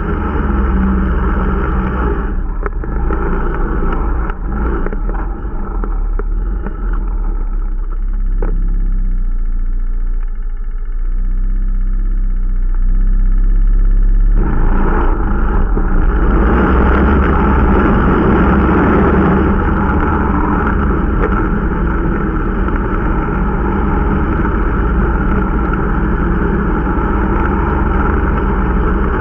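Irbis Dingo T125 snowmobile's 125 cc engine running under way during its break-in: it eases off for about twelve seconds from two seconds in, then pulls harder and louder from about halfway through and holds steady.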